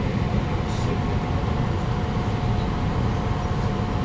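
Cabin noise inside a Siemens C651 MRT carriage: a steady low rumble with a constant mid-pitched hum.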